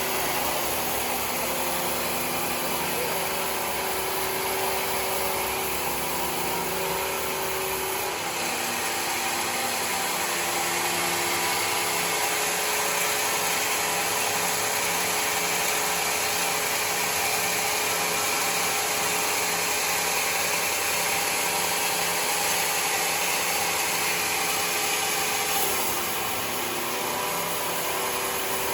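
Sawmill running steadily, its engine and blade making a continuous mechanical sound while milling mahogany. The sound changes about eight seconds in and changes back a few seconds before the end.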